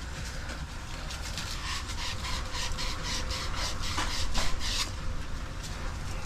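Abrasive cleaning of copper pipe before soldering: repeated rasping strokes, about three a second, growing louder toward the end.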